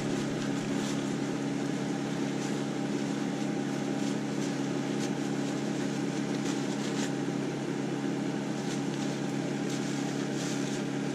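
A steady low machine hum, like a fan or heater running, with faint brief scrapes and rustles every second or two as the oil filter is wiped clean.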